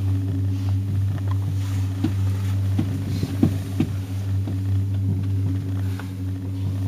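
Steady low hum inside a moving aerial tram cabin, with a few light clicks and knocks about three to four seconds in.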